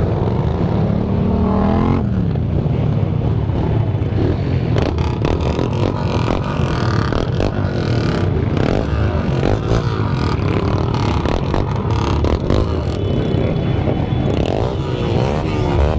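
Motorcycle engines revving repeatedly, with a rising rev near the start. From a few seconds in, many sharp cracks sound over the engine noise.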